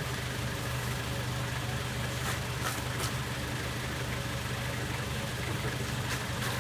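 A vehicle engine running steadily at low revs, with a few faint clicks a little over two seconds in and again near the end.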